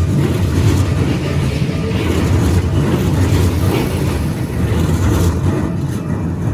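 Keikyu Line train passing over a level crossing: a loud, steady, low rumble of wheels on the rails.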